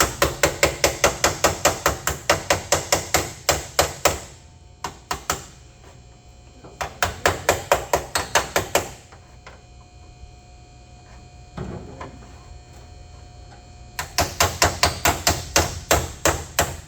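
A body hammer rapidly tapping the bent sheet metal of a Honda Accord's radiator core support against a heavy dolly held behind it, about five blows a second. The blows come in three runs with pauses between, working the two pieces of metal back together.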